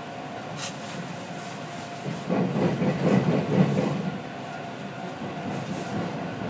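Ex-Keio Inokashira Line 3000 series electric train running along the track, heard from the cab, with a sharp click under a second in. About two seconds in comes a louder stretch of wheel rumble and clatter, lasting under two seconds, as the train crosses a level crossing.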